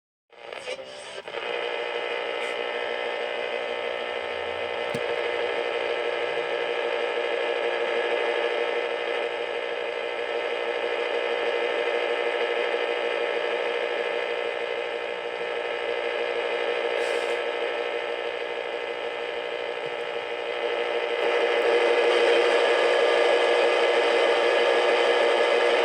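Steady electronic static: a dense hiss laced with many steady whining tones, starting with a few crackles and growing louder about 21 seconds in.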